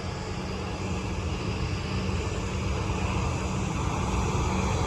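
Jet aircraft engines running: a steady rush with a low hum that slowly grows louder.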